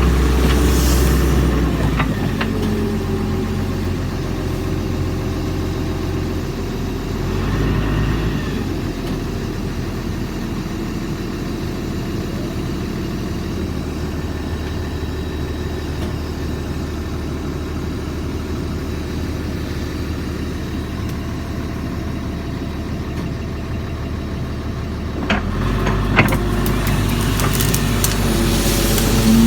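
Doosan DX140 excavator's diesel engine running under working load, easing down about two seconds in and picking up again near the end, with a few sharp knocks as it works.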